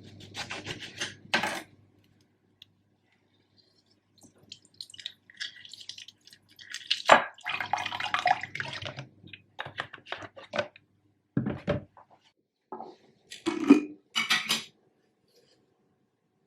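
Dishes and cutlery clinking and clattering in kitchen work, in irregular short clusters with quiet gaps between them.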